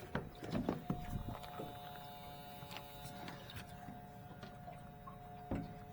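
Small 12-volt electric pump for a boat's bait box, running with a faint steady hum. Scattered light clicks and a short knock near the end.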